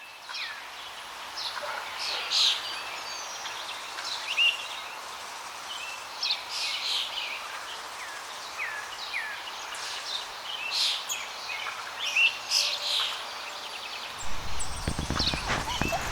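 Small birds chirping and calling over an outdoor hiss, many short, high chirps and a few downward-sliding calls. A low rumble comes in near the end.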